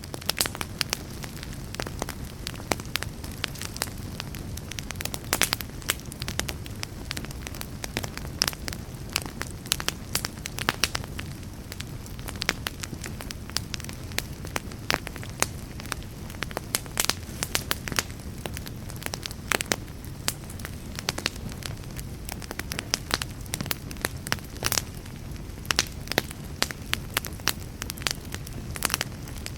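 Fire burning with a steady low rumble and frequent sharp crackles and pops, several each second.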